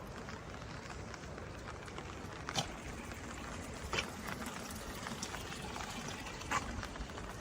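Steady rain falling, with a few sharp drip-like taps, the loudest about two and a half seconds in.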